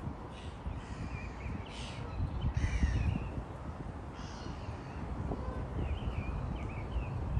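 Harsh, rasping bird calls repeated several times, followed about two-thirds through by a few brief higher chirps, over a steady low rumble.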